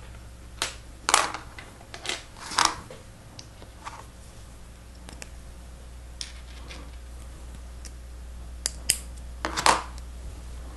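Plastic Lego Technic pieces clicking and clacking as they are handled and fitted together, about ten sharp irregular clicks with a few louder clacks, over a steady low hum.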